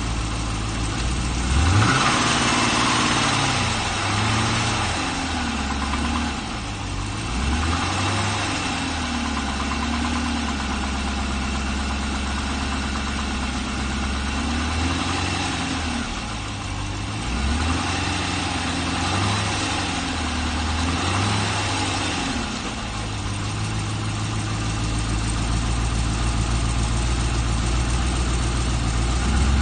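GM LS3 6.2-litre V8 idling and being revved briefly a few times, each rev rising and falling back to idle. The engine has the knock the owner takes for piston slap.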